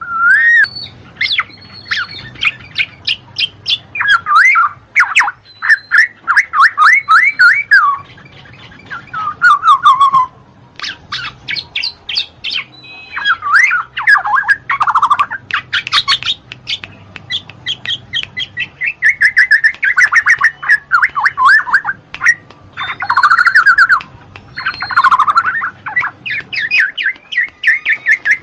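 Black-naped oriole (kepodang) singing: phrases of fast repeated chirps and falling whistles, a few seconds each, with short pauses between them.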